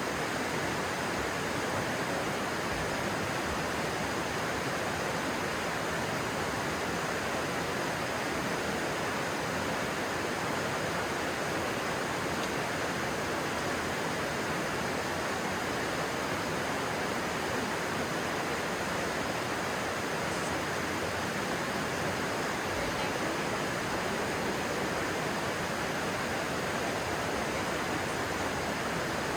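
Stream water rushing steadily, an even hiss of flowing water with no breaks.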